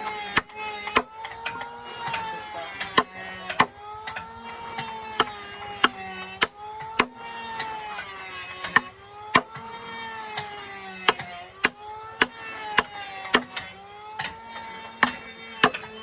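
Hand work on wood: sharp wooden knocks and taps come several times a second, over a pitched squeal that rises and falls again about every second and a half.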